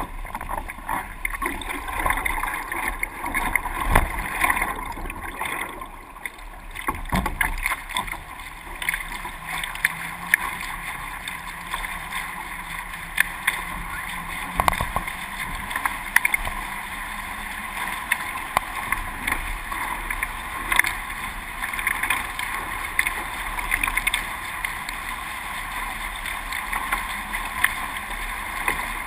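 Water rushing and splashing against the hulls of a Hobie 20 catamaran under sail: a steady wash of noise broken by frequent short slaps and splashes.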